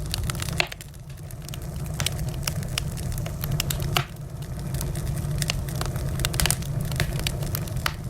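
Wood fire crackling, with frequent sharp irregular pops and snaps over a low steady rumble of the burning fire.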